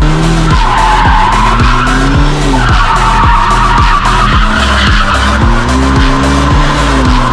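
A car's engine revving up and down repeatedly with its tyres squealing, over dance music with a steady beat.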